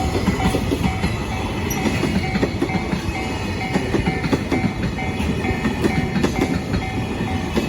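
Koki container wagons of a freight train rolling past, with a steady rumble and wheels knocking over rail joints, while a level-crossing warning bell rings about twice a second.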